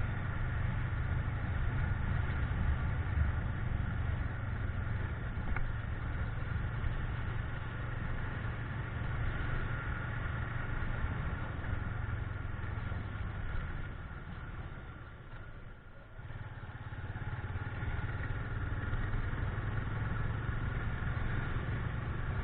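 Motorcycle, a Yamaha Fazer FZ25 with a single-cylinder engine, running steadily while riding, with road and wind noise; the sound drops away about fifteen seconds in, then picks up again.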